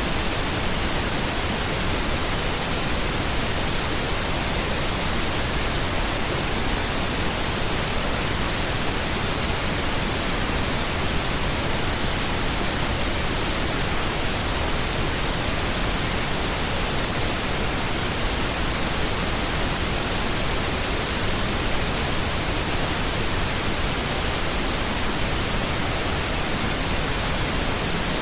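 Pink noise: a steady, even hiss spread across all pitches, with no change in level.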